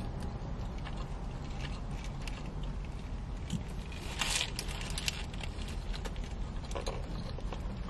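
A person chewing a cheeseburger with small wet mouth clicks, over a steady low hum. About four seconds in comes a brief noisy burst as she takes another bite from the burger in its paper wrapper.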